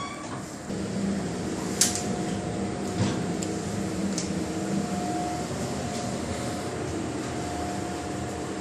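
A steady mechanical hum that steps up in level about a second in, with two sharp clicks a little over a second apart.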